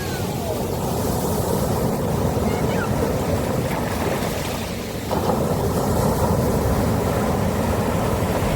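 Sea surf washing continuously onto a beach, a steady rushing noise, which steps up abruptly in level about five seconds in.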